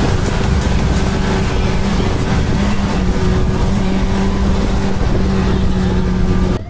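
Motorcycle engine running at a steady speed under wind rush, with a held engine note throughout; it cuts off abruptly near the end.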